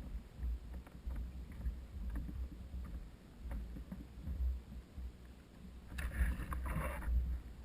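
A kayak on the water: a low rumble with faint scattered knocks. About six seconds in comes a louder rush of water lasting about a second.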